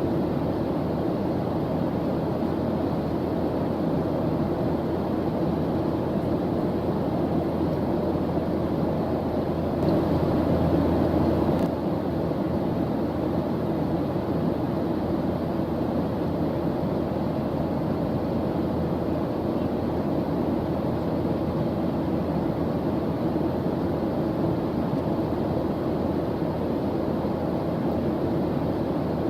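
Steady white-noise track, an even rushing hiss weighted toward the low and middle range. It swells slightly about ten seconds in and drops back just before twelve.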